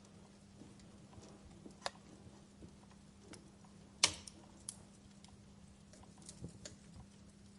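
Wood fire crackling in a fireplace: irregular small pops and snaps, with a sharper crack about four seconds in.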